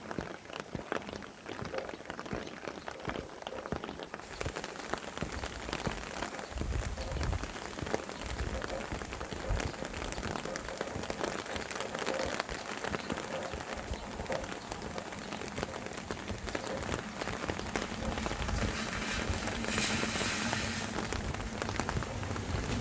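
Steady rain falling, with many close drops pattering on a surface. Gusts of wind rumble on the microphone about seven seconds in and again near the end, where the rain swells briefly.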